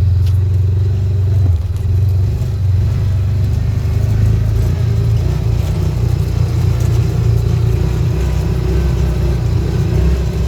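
A vehicle engine running loudly and steadily at an even speed, with a strong low hum.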